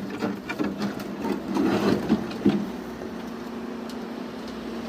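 Heavy equipment engine running steadily while broken concrete is shifted in a dump truck, with a scatter of knocks and clunks in the first half. The sharpest knock comes about two and a half seconds in, and after it only the engine hum is left.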